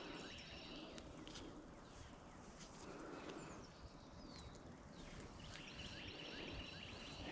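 Quiet outdoor background with birds chirping faintly, a chattering song coming in more strongly near the end, and a few faint clicks.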